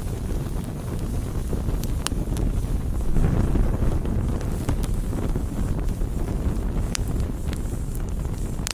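Wood fire burning with a steady low roar, swelling a little after three seconds in, and scattered sharp crackles and pops from the burning wood.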